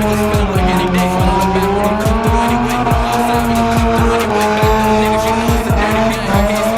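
Car spinning its tires on pavement at a car meet, with the engine held at high revs and the tires squealing continuously, the pitch wavering slightly.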